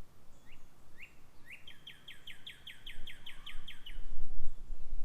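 A songbird singing a series of short down-slurred whistled notes: two or three spaced notes, then a fast even run of about a dozen. A low rumble, such as wind on the microphone, comes in near the end and is the loudest thing there.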